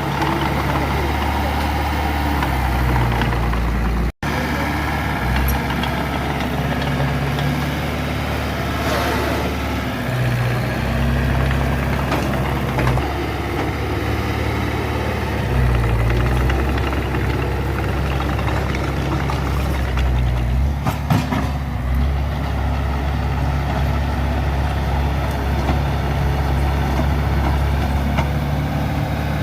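Diesel engine of heavy earthmoving machinery running under changing load, its note shifting up and down. The sound drops out for an instant about four seconds in, and a few sharp knocks come about two-thirds of the way through.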